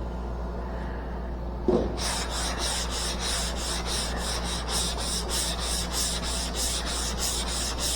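Hand sanding block with 180-grit paper rubbing over a car body panel in quick, even back-and-forth strokes, starting about two seconds in after a brief knock. The paper's drag lightens as the coarser 80-grit scratches are worked out.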